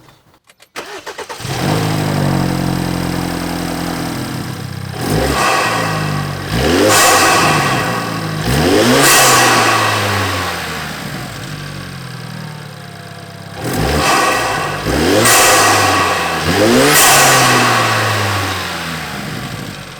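BMW N20 2.0-litre turbocharged four-cylinder, fitted with an MST intake and inlet, starting up about a second in and idling. It is then revved about five times, each rev rising and falling back to idle.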